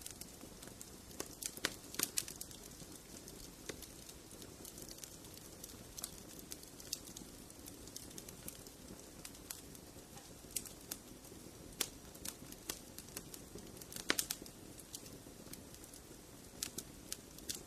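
Fireplace fire crackling: irregular sharp pops and snaps over a steady low rush of burning, with a cluster of louder pops about fourteen seconds in.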